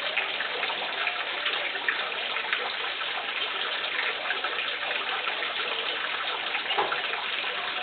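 A large flock of black birds calling all at once, many short sharp chips blending into a dense, steady chatter.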